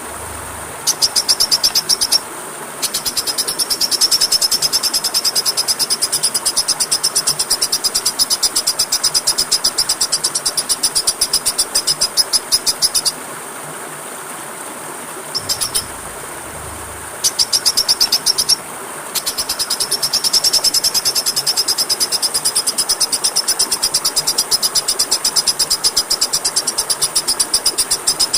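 A high-pitched, rapid, evenly pulsed trill repeated in long runs with short breaks, over a steady rushing-water background, as used in a magpie-robin training track.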